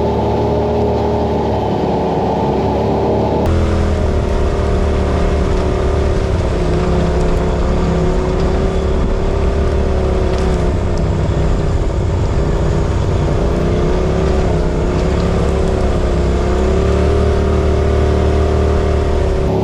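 Side-by-side UTV engine running steadily while driving along a trail, its pitch rising and falling gently with the throttle. The sound changes abruptly about three and a half seconds in.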